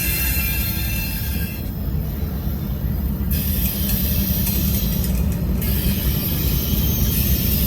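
Freight train rolling past with a steady low rumble of wheels on rail, and high-pitched wheel squeal that comes and goes in stretches of a second or two.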